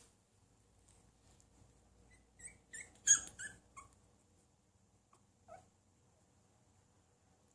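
Maltese puppy giving a quick run of short, high-pitched yips and whimpers, then one faint squeak a couple of seconds later.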